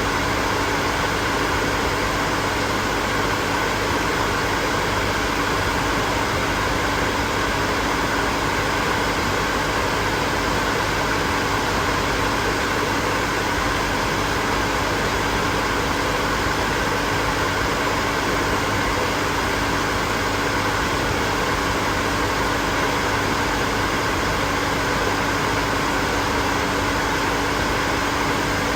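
Hair dryer running steadily: an even rush of blown air with a constant hum beneath it.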